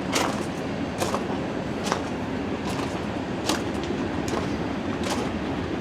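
Footsteps on gravel track ballast at a steady walking pace, about one step a second, over a steady low rumble.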